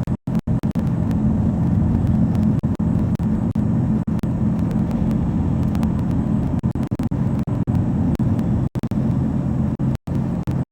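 Truck engine running steadily while driving, a constant low drone, with a few brief cut-outs in the recording.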